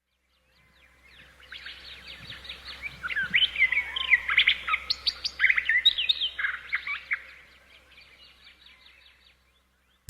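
Birdsong: many short chirps and trills from several birds that fade in about a second in, are busiest in the middle and fade out near the end. It is a recorded bird intro, pitched up with the rest of the track.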